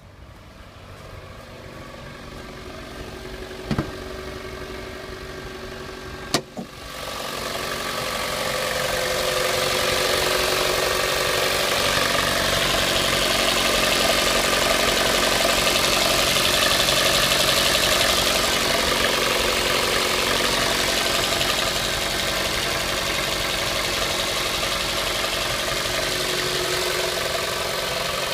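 Mitsubishi Lancer X 2.0 four-cylinder engine idling steadily, the engine whose dull knock is being recorded. It is faint at first, with two sharp clicks, then much louder from about seven seconds in.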